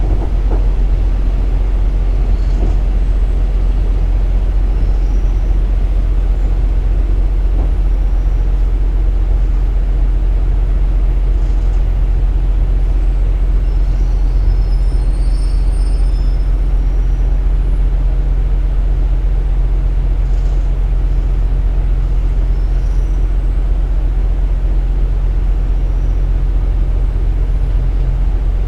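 Steady low hum of a KiHa 47 diesel railcar heard from inside the passenger cabin, with no rail-joint clicks.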